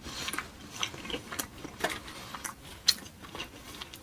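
Close-miked chewing of a mouthful of quesadilla: irregular wet mouth clicks and smacks, a few each second.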